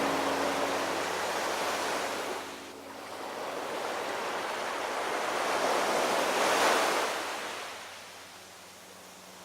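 Ocean waves washing in, in two surges: the first fading out about two and a half seconds in, the second building to a peak around seven seconds in and dying away near the end.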